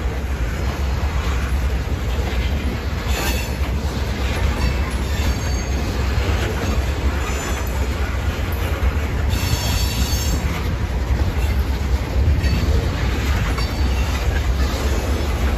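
Freight train of tank cars rolling past with a steady rumble of steel wheels on rail. High-pitched metallic wheel squeal comes and goes several times and is loudest about ten seconds in.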